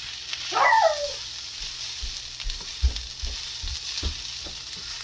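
Shrimp fried rice sizzling in a hot pan with a steady hiss, and the spatula knocking and scraping against the pan several times in the second half as it is stirred.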